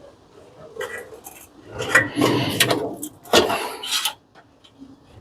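Parts of a commercial coffee machine being handled during its teardown: clattering, rubbing and scraping with several sharp knocks, in bursts about a second in, from two to three seconds, and again around three and a half seconds, then quieter near the end.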